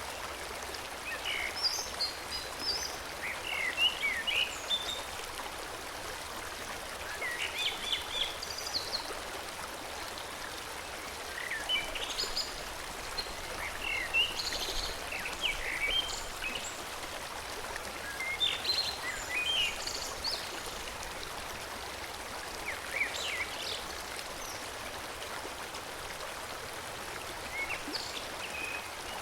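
Forest stream flowing steadily, with birds singing short chirping phrases every few seconds over the water.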